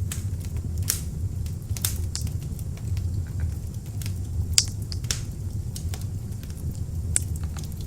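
Beech-wood log fire burning in an open fireplace: a steady low rumble of flames with irregular sharp crackles and pops, a louder pop about four and a half seconds in.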